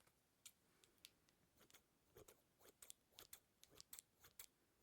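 Faint, close-up sticky clicks and pops, an irregular run of a dozen or more short snaps.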